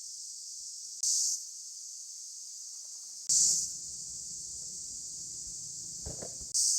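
Insects chirring outdoors in a steady high-pitched drone, swelling into short louder bursts about a second in, around three seconds in and near the end.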